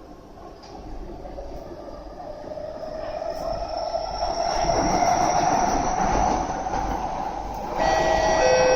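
Kawasaki C151A metro train running, heard from inside the car: the running noise builds and a whine edges up in pitch as the train gathers speed. About eight seconds in, several steady high tones set in together.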